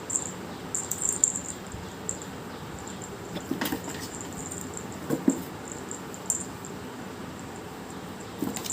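A kitten playing: a few small taps and scuffs over a steady background hiss.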